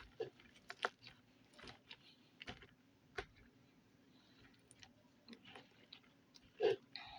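Slime being squeezed and worked by hand, giving faint, irregular wet clicks and squelches, with one louder squelch near the end.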